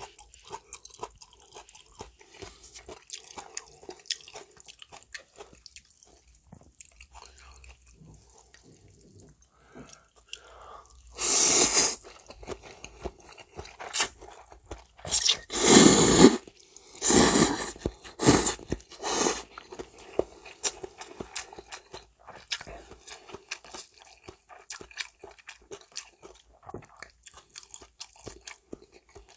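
Close-miked eating of janchi guksu, a warm noodle soup: steady chewing with small crunches. About eleven seconds in comes a run of five loud slurps over some eight seconds, then the chewing resumes.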